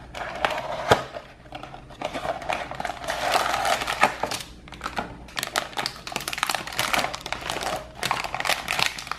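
Crinkling and crackling of cellophane wrapping and thin plastic parts as a candy kit is unpacked by hand, with irregular clicks and a sharp snap about a second in.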